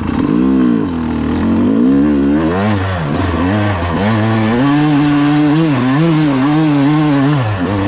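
Yamaha YZ250X single-cylinder two-stroke dirt bike engine under load on a hill climb, revving up and down with the throttle several times, then held at high revs before dropping off near the end.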